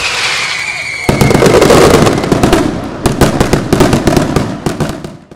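Fireworks display: a whistle with a slowly falling pitch, then from about a second in a dense run of sharp bangs and crackles. It cuts off suddenly near the end.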